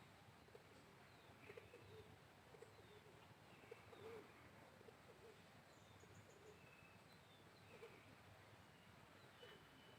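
Faint bird calls over near silence: scattered short, falling chirps and soft low notes.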